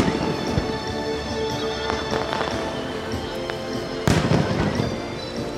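Aerial fireworks bursting: a bang right at the start and a louder one about four seconds in, each followed by crackling, with a few smaller pops between. Music plays steadily underneath.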